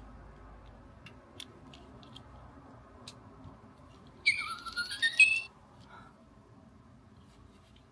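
Little Live Pets electronic toy bird chirping through its newly replaced speaker: one burst of high tweets with rising glides, about a second long, a little after four seconds in, following a few faint clicks. The chirp shows the burned speaker's replacement has brought the toy's sound back.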